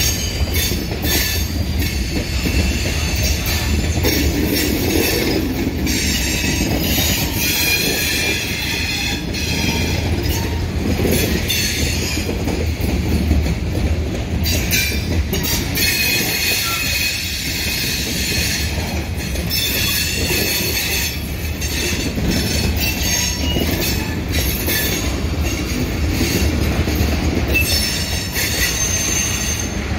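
Slow-rolling freight train of tank cars and covered hoppers passing close by, its wheels rumbling steadily on the rails. High-pitched wheel squeals come and go every few seconds.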